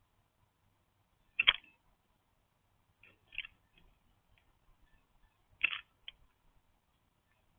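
Irregular sharp taps and clicks: two louder knocks, about a second and a half in and again about five and a half seconds in, with fainter clicks between.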